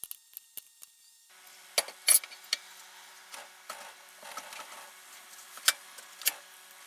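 Scattered sharp clicks and knocks of tools or parts being handled, with a handful of louder taps among them.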